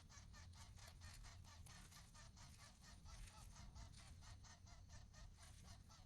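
Nestling birds begging for food: a fast, unbroken run of short, harsh calls, about five or six a second.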